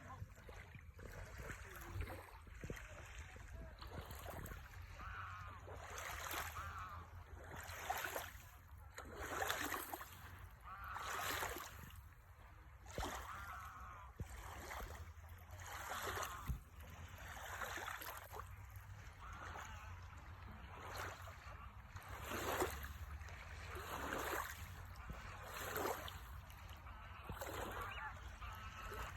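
Sea waves washing in at the shore, one wash every second or two.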